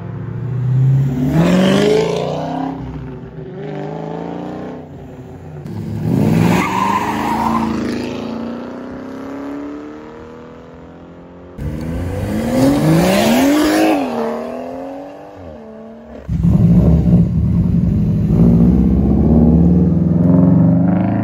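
Car engines revving hard and accelerating, in several short edited clips: three times the engine's pitch climbs steeply, once falling back and climbing again. The last clip is a steady, loud low engine rumble held at high revs.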